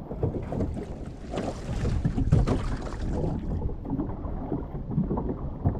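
Wind buffeting the microphone over water sloshing and slapping against the hull of a small sailing dinghy rocking in a short chop. The higher hiss thins out about three and a half seconds in.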